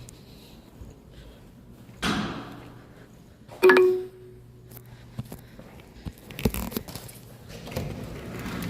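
A door shutting with a thunk, then a sharp metallic clank that rings briefly on one tone, followed by a few lighter knocks and steps.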